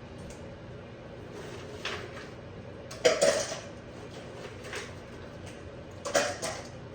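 Kitchen clatter of dishes being handled: two sharp knocks with a brief ring, about three seconds in and again near the end, with lighter taps between, over a faint steady hum.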